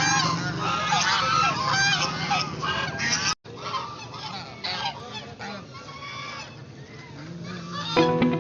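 A flock of ducks calling over one another, loud and dense for the first three seconds, then a brief gap and thinner, quieter calls. Plucked guitar music comes in near the end.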